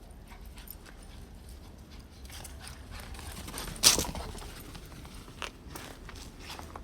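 Dog walking in boots on a hard floor: irregular light taps and clicks of the booted feet, with one louder knock about four seconds in.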